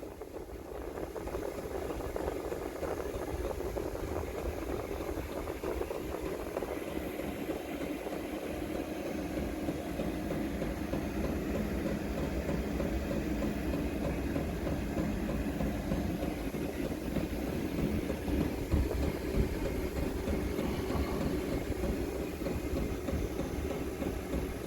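A power tool running steadily as it scours the rusty steel of a Rover P6's rear wing area back to clean metal.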